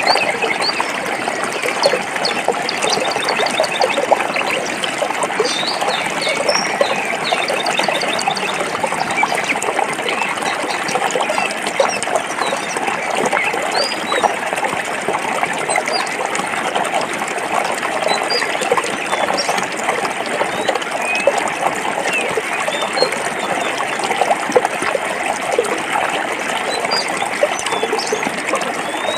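Forest stream water flowing and splashing over rocks, a steady babbling with no breaks. Short high chirps are scattered through it.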